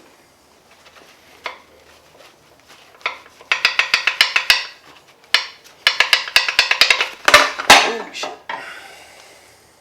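Hand tools working on a stripped-down engine: two bursts of fast metallic clicking and clatter, like a ratchet wrench being worked, the second burst longer and ending in a rougher scrape.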